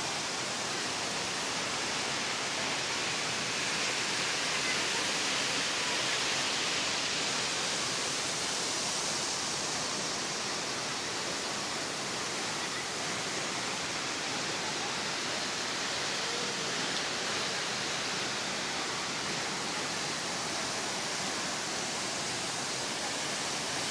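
Steady rushing roar of a waterfall about 45 m high, falling water crashing into its plunge pool, an even hiss with no breaks.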